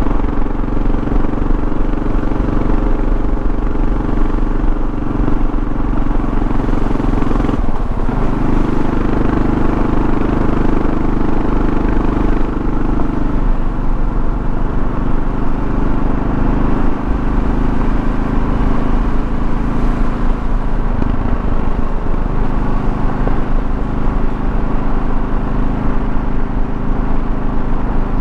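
Kawasaki KLR650's single-cylinder engine running steadily under way, with road and wind noise. The engine note changes abruptly about eight seconds in and again about 21 seconds in.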